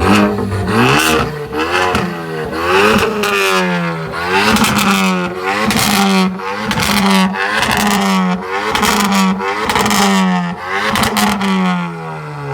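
A car engine being revved hard again and again in quick blips, about one to two a second, its pitch falling away near the end.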